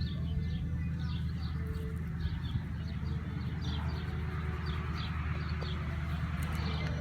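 A small bird chirping over and over, short falling chirps about twice a second, over a steady low hum.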